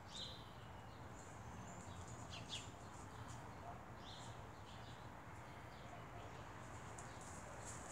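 Quiet outdoor ambience with small birds chirping now and then: several short calls, some sweeping downward, over a faint steady low hum.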